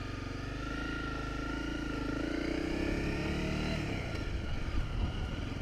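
Honda CRF250 Rally's single-cylinder engine pulling away and accelerating, its pitch climbing steadily, then dropping about four seconds in.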